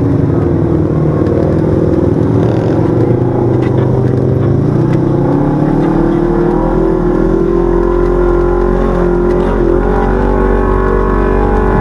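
Side-by-side UTV engine running under throttle on a trail. Its note dips about halfway through, then rises and holds steady.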